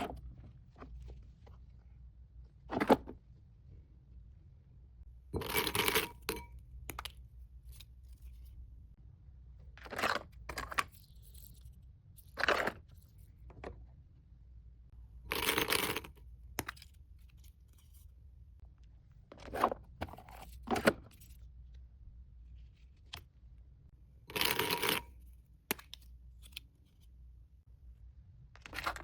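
Packing sounds from a mystery box: short bursts of tearing and crinkling packaging every few seconds, with a few sharp clicks of small items being set down.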